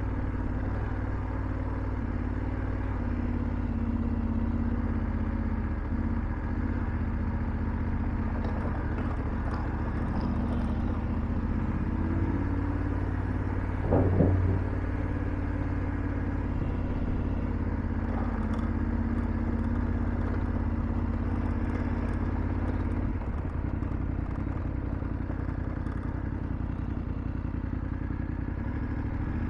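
BMW F750GS's parallel-twin engine running steadily under way, heard from the bike with road and wind noise. About halfway through there is one short rise and fall in pitch.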